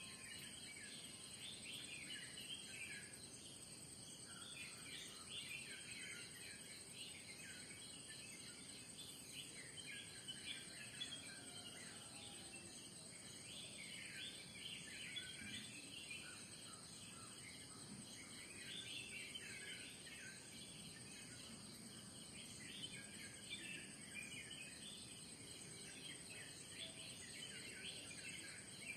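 Faint morning ambience: many birds chirping and calling in short, overlapping notes, over a steady high-pitched drone of insects.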